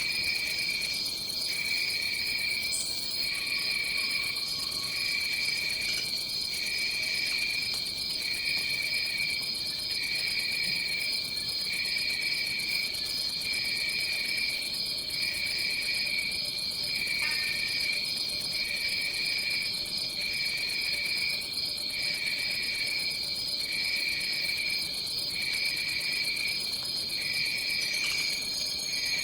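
Chorus of insects trilling in a tropical forest: a steady high-pitched trill, with a lower trill that pulses on and off about every second and a half.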